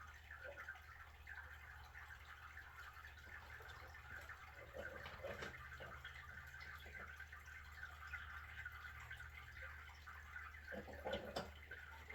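Faint, steady trickle of water draining out of a 50-gallon electric water heater tank, with a few brief knocks about five seconds in and near the end.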